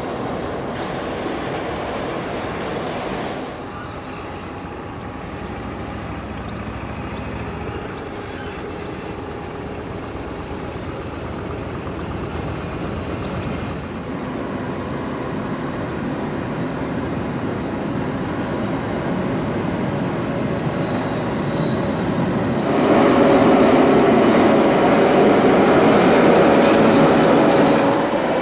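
Matterhorn Gotthard Bahn Ge 4/4 electric locomotive hauling a train of car-carrier wagons past: steady rumble of wheels on the rails. It gets louder for the last five seconds or so as the train comes closer.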